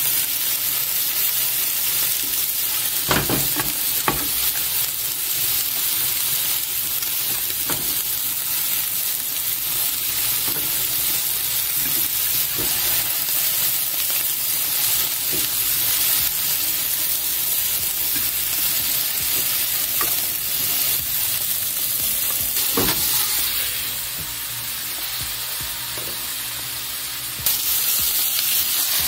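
Food sizzling steadily in frying pans: egg for a rolled omelette in a rectangular pan, and cabbage with chicken in a round pan. A few sharp clicks of a plastic spatula against a pan break the sizzle, which turns quieter for a few seconds near the end.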